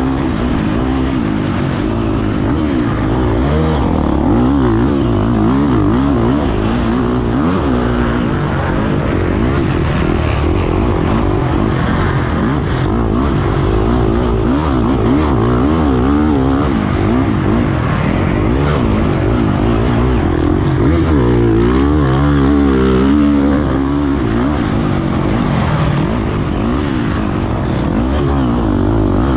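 Motocross dirt bike engine revving, its pitch rising and falling over and over as the throttle is opened and closed.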